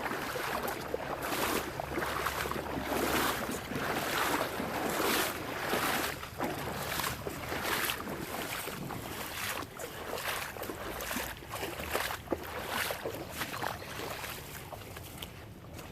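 Footsteps wading through a shallow creek, water splashing with each stride in a steady walking rhythm of about one to two steps a second.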